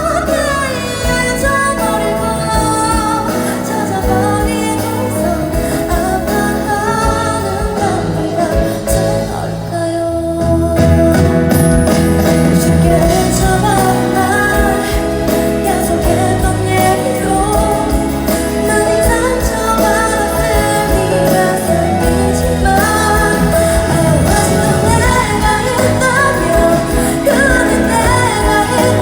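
A woman singing a pop song live with instrumental accompaniment. About ten seconds in the music briefly thins, then comes back fuller and louder.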